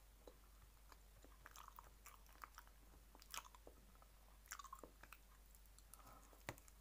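Faint close-up chewing with small mouth clicks and smacks, and a bite into food near the end.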